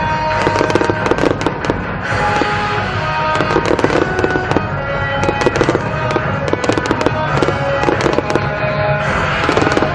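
Aerial fireworks going off in quick succession, a dense run of sharp cracks and pops, with music playing under them.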